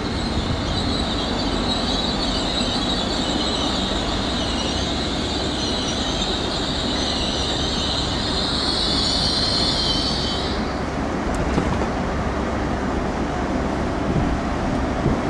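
A train rolling on the track with a steady rumble and a high wheel squeal over it that wavers in pitch and stops about ten seconds in.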